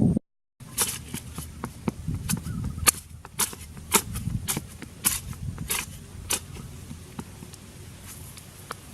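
A series of sharp, irregular knocks and clicks, several a second at first and thinning out toward the end, over a low background rumble.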